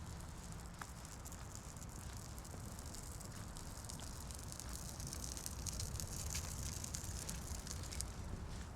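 A walker's footsteps on the pedestrian footbridge, many small clicks over a steady low rumble and hiss of the open-air city.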